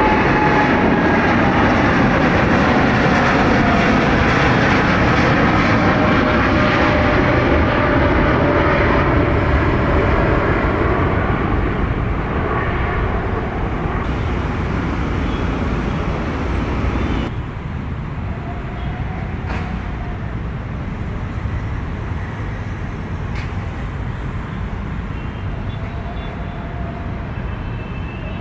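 Jet airliner's engines passing close: loud engine noise with a whine that falls in pitch over the first several seconds, then slowly fading. A little over halfway through the higher sound drops away abruptly, leaving a quieter low rumble.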